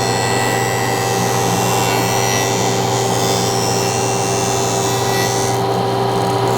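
Woodworking jointer running steadily while its cutterhead planes the edge of a hard maple board, a hissing cut over a steady motor hum. About five and a half seconds in the hiss of the cut drops away and the jointer runs on without cutting.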